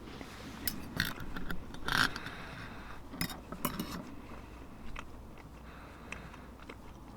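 Scattered light clicks and clinks, a cluster of them in the first few seconds, then only a few.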